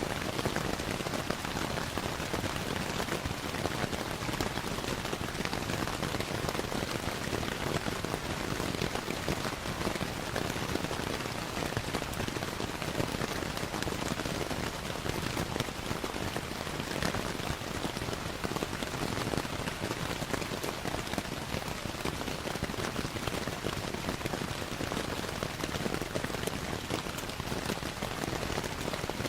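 Steady rainfall mixed with a crackling wood fire: a continuous even hiss dotted with many small pops and ticks.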